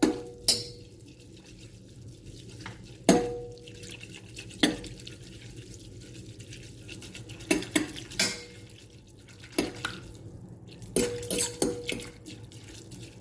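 A utensil clinking against a bowl while stirring in seasonings and hot sauce: a dozen or so irregular clinks, some leaving the bowl ringing briefly, with a cluster near the end.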